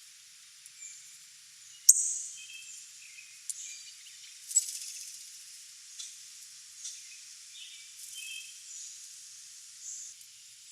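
Wild songbirds outdoors giving short chirps and calls throughout, over a faint hiss. A sharp, loud chip or click comes about two seconds in, and another strong note about four and a half seconds in.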